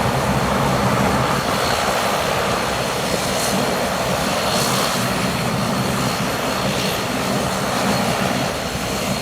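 Pratt & Whitney PW150A turboprop engines of a Bombardier Dash 8 Q400 running steadily after engine start: a loud, even drone with a thin high whine over it.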